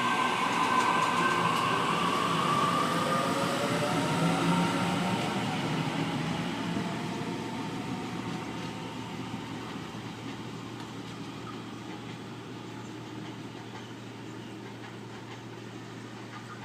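Waratah electric train pulling out: the traction motors whine, rising in pitch over the first few seconds, over a rumble from the wheels, and the sound fades steadily as the train draws away.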